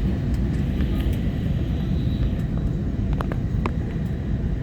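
Steady low rumble inside the cabin of an Airbus A320neo, from its engines and air-conditioning, with a few light clicks about three seconds in.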